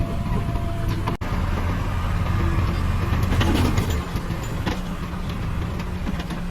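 Diesel engine of a JCB 3DX backhoe loader running under load, swelling for a couple of seconds around the middle and then easing off, with scattered short clanks.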